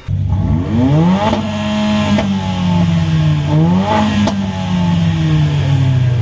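Car engine revved through its exhaust: it climbs sharply about half a second in and is held high. It dips and rises again near four seconds in, then slowly eases down, with a few sharp cracks along the way.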